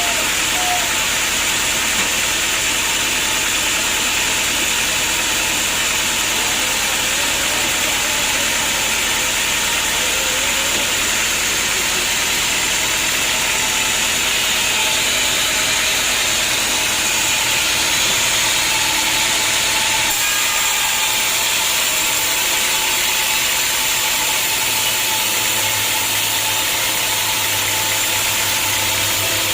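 Homemade log sawmill running steadily, its engine and saw making a continuous loud noise. About 20 seconds in the low hum drops away, and a few seconds later a new low hum sets in.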